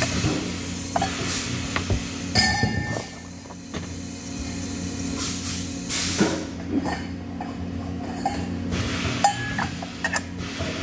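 Workshop sounds: metal clinking and clicking with short bursts of hiss over a steady machine hum.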